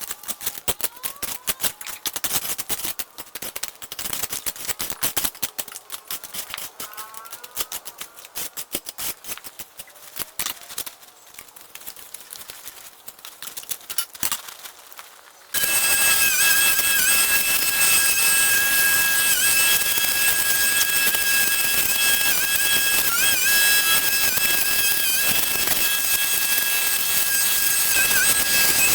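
Scattered sharp clicks and knocks for about half the time, then a loud steady machine noise with a high whine cuts in suddenly, its pitch sagging briefly now and then as if under load.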